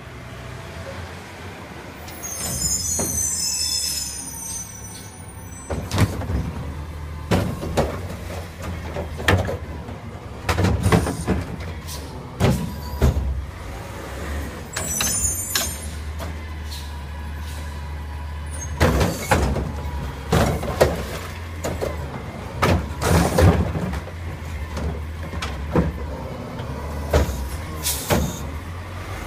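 Recycling garbage truck with its engine running steadily, an air brake hissing twice, and a long run of sharp bangs and clatters as recycling is tipped into the hopper.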